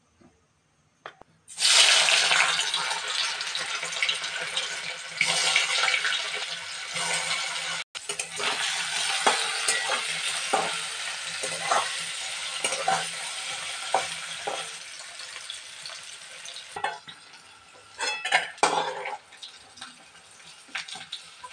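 Turmeric-coated paneer cubes sizzling in hot oil in a wok. The sizzle starts suddenly about a second and a half in, and a spatula scrapes and knocks against the pan as the pieces are turned. The sizzle dies down over the second half, with a few clatters near the end.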